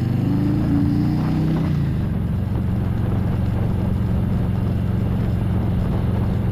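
A vehicle engine running steadily, with a brief rise and fall in pitch during the first two seconds.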